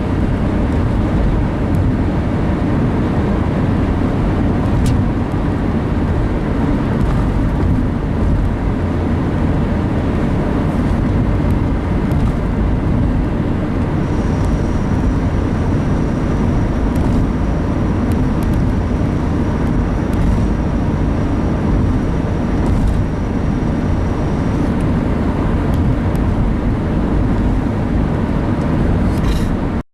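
Steady road and engine noise heard inside the cabin of a car driving on a highway, strongest in the low end. A faint thin high tone sits over it from about halfway through for around ten seconds.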